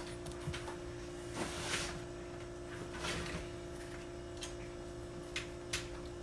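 Sweet potatoes being handled and set on a scale: a few soft knocks and rustles, over a steady background hum.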